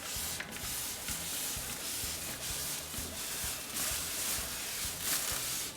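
Cleaning liquid sprayed onto an air conditioner's aluminium fins: a steady hiss with a few brief surges.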